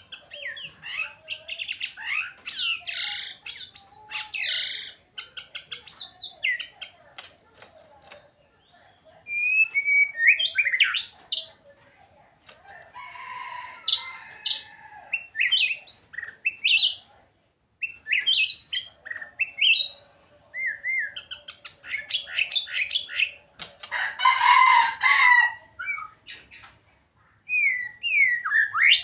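White-rumped shama singing a long, varied song: phrases of rich, fast-gliding whistles and quick trills broken by short pauses, with a few harsh, rasping notes in between.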